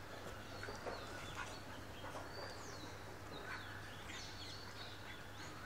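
Small birds chirping: many short, high calls that slide in pitch, several a second, over a low steady hum.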